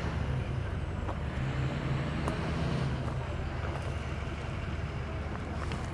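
An engine running steadily at low speed, with a few faint clicks.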